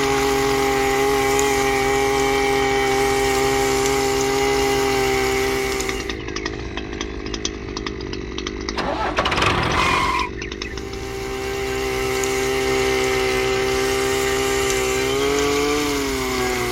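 Small electric motor whining at a steady pitch. It cuts out about six seconds in, a brief noisy clatter follows, and it starts again about eleven seconds in, its pitch sagging and recovering near the end.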